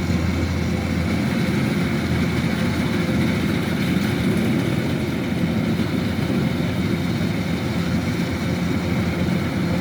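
Kubota DC-105X combine harvester running steadily under load as it harvests rice, its diesel engine and threshing machinery giving a continuous, even drone.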